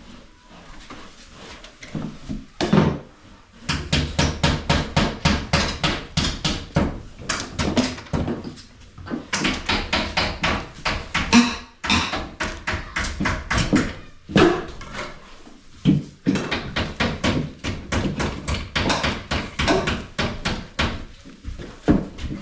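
Rapid, evenly repeated strokes, about five a second, in several bouts broken by short pauses.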